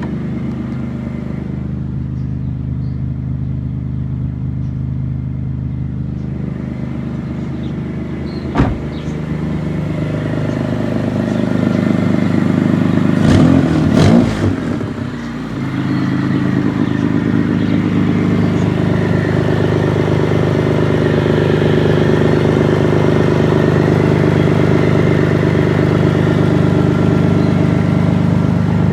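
Freshly swapped Toyota 3MZ-FE V6 with a TRD supercharger idling steadily. A sharp click comes about a third of the way in, and a brief louder, uneven stretch near the middle, after which the idle runs a little louder.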